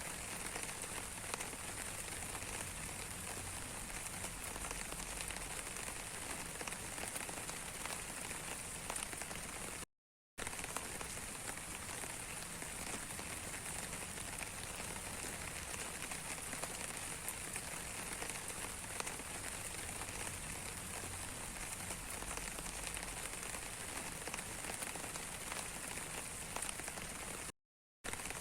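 Steady rain falling, an even hiss with scattered drop ticks. The sound cuts out completely twice for a moment, about a third of the way in and near the end.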